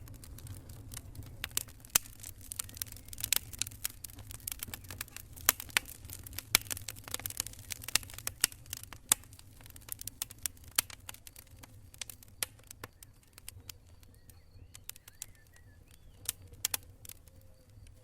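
Burning wood campfire crackling, with many sharp pops and snaps over a steady low rumble; the pops come thick through the first half and thin out in the second.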